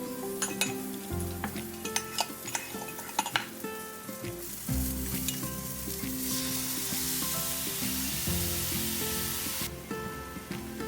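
Food frying and sizzling in a pan, with sharp clicks of a utensil against the pan over the first few seconds. The sizzle swells to its loudest from about six seconds in and drops back shortly before the end.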